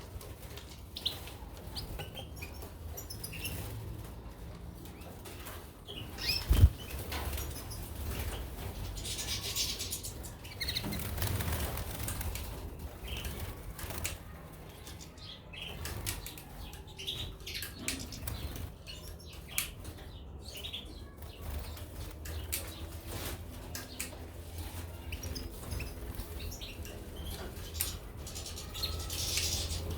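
Caged goldfinches and canaries fluttering and hopping about, with repeated wing-flapping and rustling; one sharp thump about six and a half seconds in.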